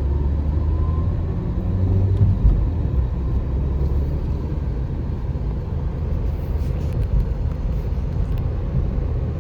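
Motor vehicle driving: a steady low engine and road rumble, slightly stronger about two seconds in.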